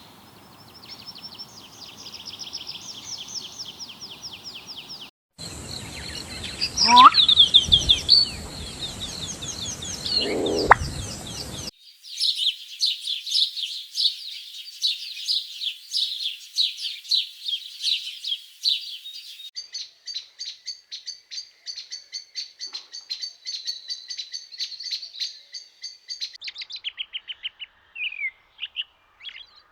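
Small birds chirping in fast repeated trills, several separate recordings cut together, each segment starting and stopping abruptly. The loudest segment has a couple of lower sliding calls among the chirps.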